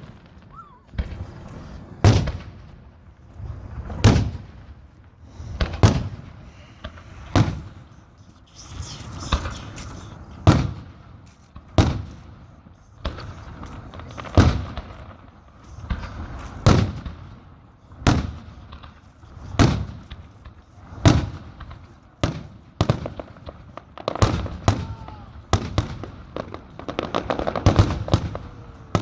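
Fireworks going off in a steady series of loud bangs, about one every one to two seconds, each trailing a low rumble. The bangs come thicker and overlap near the end.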